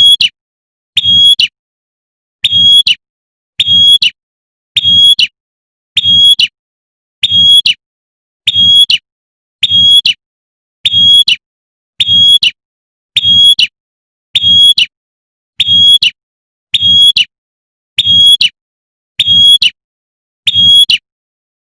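Female prinia (prenjak) giving its rapid 'tembakan' call to draw in a male. It is a short, high, buzzy burst repeated about once a second with very even spacing.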